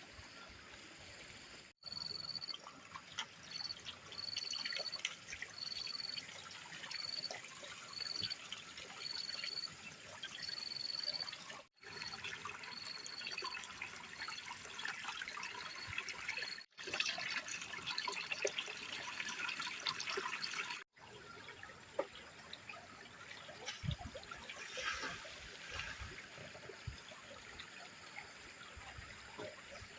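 Water trickling and splashing, cut into several short sections by brief dropouts. A repeated high chirp, about two a second, runs through the first half.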